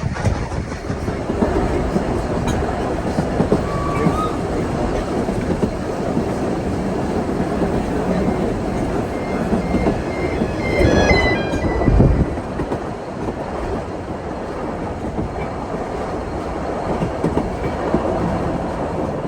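Steam train running along the line, its carriage wheels clattering steadily over the rail joints, with a few brief high wheel squeals about ten seconds in.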